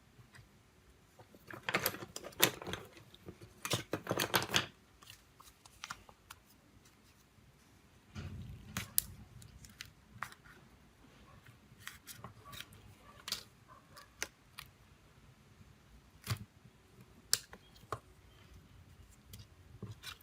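Sharp small clicks and scraping of hand tools on a smartphone's plastic and metal parts. They come close together for a few seconds near the start, then as scattered single clicks.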